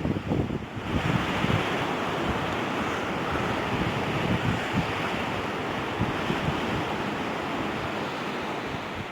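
Atlantic surf washing in on a beach: a steady rushing, with some wind buffeting the microphone.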